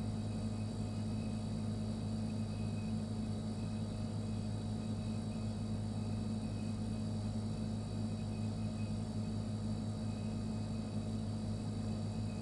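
Refrigerator running with a steady low hum, with a few faint high steady tones and a light hiss over it.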